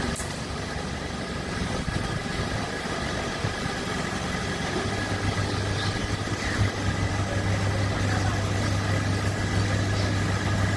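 Electric locomotive standing under the overhead wire with its pantograph raised, its onboard machinery humming steadily. A deeper steady hum joins about five seconds in.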